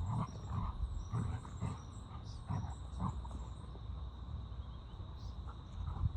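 Blue-headed parrots giving short scattered calls and chirps over a steady low rumble, with a thin steady insect-like drone running behind.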